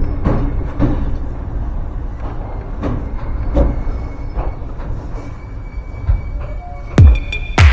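Ryutetsu Nagareyama Line electric train running on the rails: a steady low rumble with scattered short clicks. Near the end, electronic music with heavy bass beats comes in.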